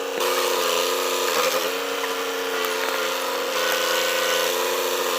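Tractor engine running steadily at high revs, a buzzing drone that dips briefly about a second and a half in.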